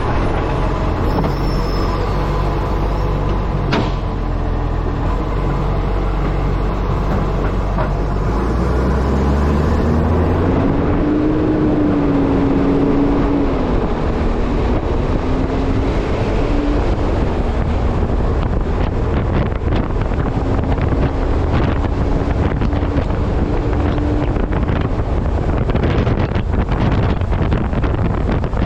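Wind buffeting the microphone of a camera mounted on the front of an ACCO truck, over the truck's diesel engine running under way. About a third of the way in, the engine note changes and a whine rises and then holds, wavering.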